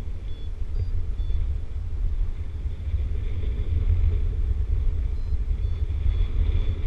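Wind buffeting the microphone in flight: a steady low rumble. Over it, a paraglider's variometer gives short high beeps of shifting pitch, on and off, the sound it makes when it picks up lift.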